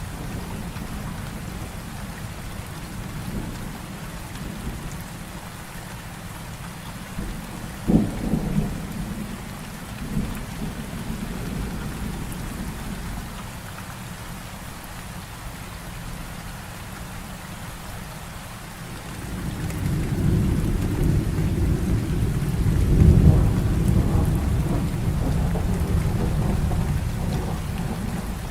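Heavy rain falling steadily in a thunderstorm. A sharp thunder crack comes about eight seconds in, and a long low rumble of thunder builds from about two-thirds of the way through, loudest a few seconds later.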